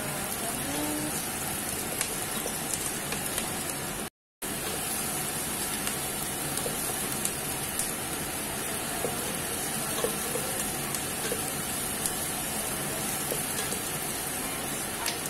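Diced onion and garlic sizzling in hot oil in a pot while being stirred with a wooden spatula: a steady hiss with scattered small pops and ticks. The sound cuts out for a moment about four seconds in.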